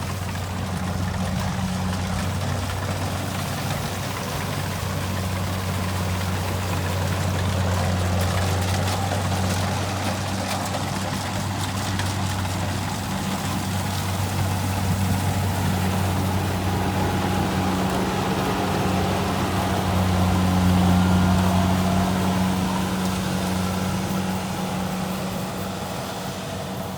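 Kubota rice combine harvester's diesel engine and machinery running steadily with a low, even hum, growing louder a little way in and again about three quarters through.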